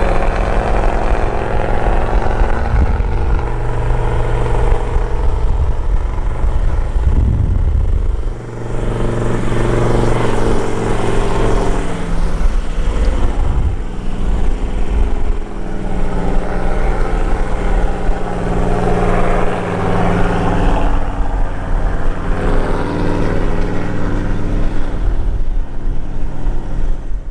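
Four-wheel-drive vehicle engine running under load while driving on beach sand. The engine note shifts as the revs change several times, with brief dips in loudness about eight, twelve and fifteen seconds in.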